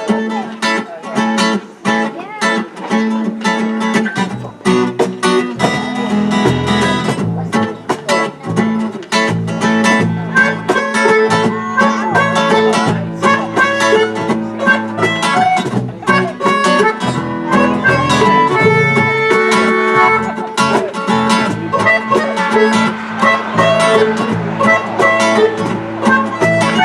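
Live acoustic band music with guitar strumming; deeper notes come in about five seconds in.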